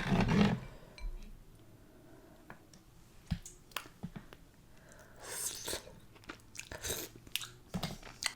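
Close-miked chewing and wet mouth sounds of someone eating, loudest just at the start and again about five to seven seconds in, with a few sharp clicks in between.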